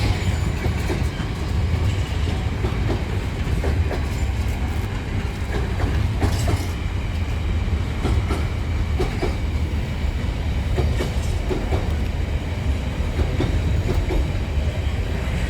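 Train passing close by: a steady heavy rumble with the wheels clicking over the rail joints.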